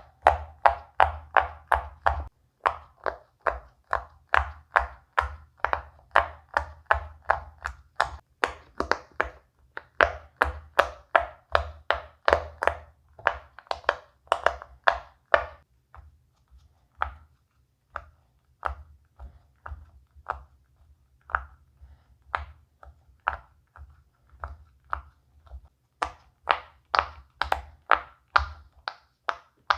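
Silicone pop-it fidget toy bubbles being pressed one after another, each giving a short soft pop, about three or four a second. The pops go quieter and sparser about halfway through, then pick up loud and quick again near the end.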